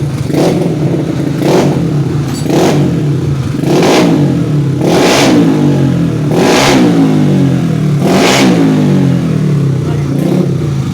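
Yamaha Mio scooter's single-cylinder engine, bored out to 155cc and tuned for racing, revved in about eight sharp throttle blips. Each blip rises quickly and falls back to idle. The exhaust note is crisp and 'dry'.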